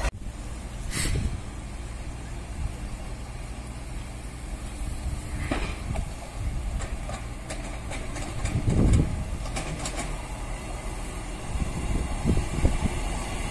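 Northern Class 158 diesel multiple unit approaching the station, its running growing louder toward the end, over a low rumble of wind on the microphone and a few scattered knocks.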